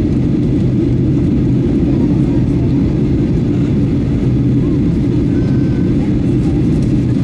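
Steady cabin drone inside a Boeing 737-800 in flight on its approach: a loud, even low rumble of engine and airflow noise with a steady hum running through it.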